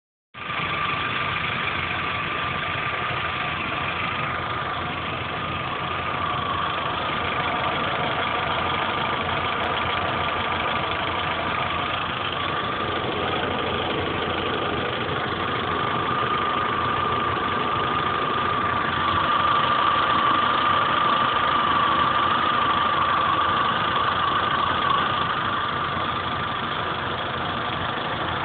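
Chevrolet Corsa 1.4 Flexpower engine idling steadily with a light tapping, the 'tec tec tec' that the owner says is strong on the first start of the day and fades as the engine warms, and that he is unsure is normal.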